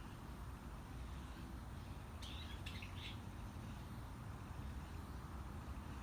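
Steady wind, heard as a low rumble, with a few short bird chirps about two to three seconds in.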